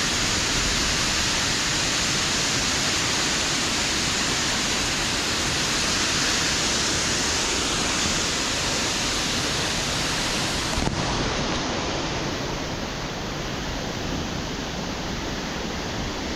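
Waterfall in full spate: a steady, very powerful rush of falling water, easing off slightly for the last few seconds.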